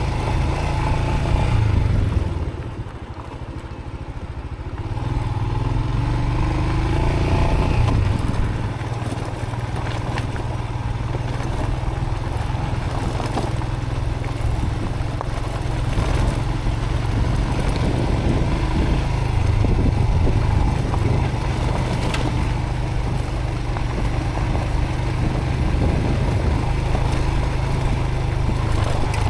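Motorcycle engine running under way on a rough dirt track, with wind noise on the helmet microphone. Near the start the throttle eases off for a couple of seconds, then the engine revs back up and runs steadily.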